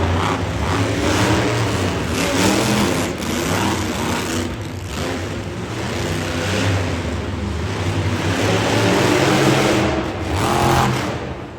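Monster truck engines running hard at high revs, the pitch rising and falling again and again as the throttle is worked; the sound drops away near the end.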